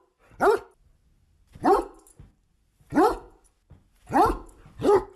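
A single dog barking aggressively: five loud, sharp barks spaced about a second or more apart, the last two close together.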